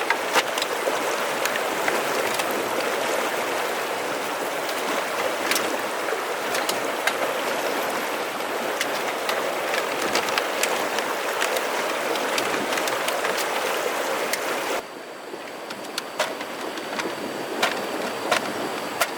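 Steady rushing water noise with many small sharp ticks scattered through it, dropping abruptly to a quieter level about 15 seconds in.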